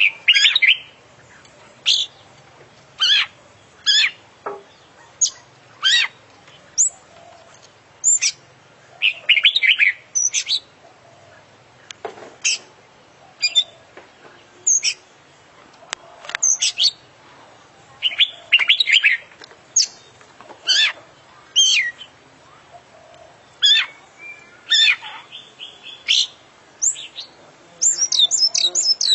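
Oriental magpie-robin (kacer) singing loudly: sharp whistled notes about once a second, many sliding down in pitch, broken by short rapid chattering runs, the last of them near the end. The song is a full repertoire of mimicked calls of other birds.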